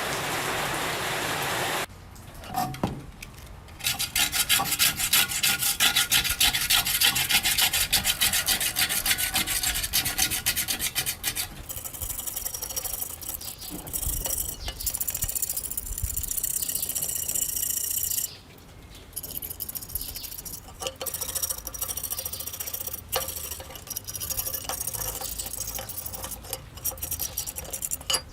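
Hand abrading of the rusty scooter's parts, a scrubbing or sanding rasp in rapid strokes that comes in spells with short pauses, loudest a few seconds in. A steady hiss fills the first two seconds.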